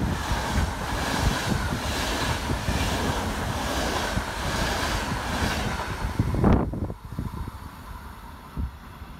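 A train passing through the station at speed: a loud rush of wheels on rail with a regular beat. About two-thirds of the way through it cuts off abruptly, leaving a much quieter background.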